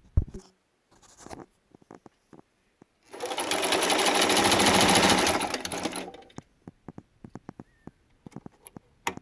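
Singer Fashion Mate 327 sewing machine running for about three seconds, starting about three seconds in, picking up speed and then slowing to a stop, with a fast even rhythm of needle strokes. Scattered light clicks come before and after the run.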